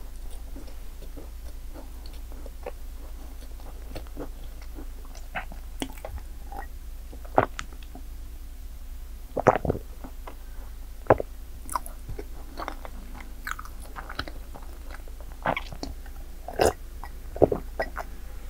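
Close-up eating of madeleines: chewing with scattered crisp clicks and several louder crunchy bites.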